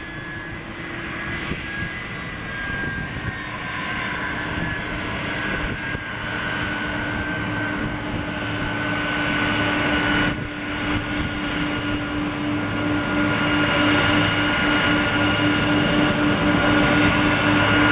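Boeing 747-400 freighter's four jet engines running with a steady roar and high whine, growing gradually louder as the aircraft comes nearer.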